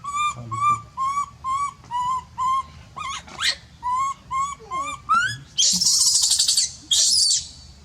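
Baby monkey calling in a quick string of short, high-pitched cries, about three a second, then giving two loud, harsh screams near the end.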